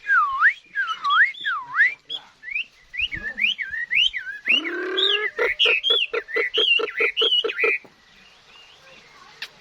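Chinese hwamei singing: loud swooping whistled phrases, then a fast run of repeated notes, about five a second, that stops well before the end.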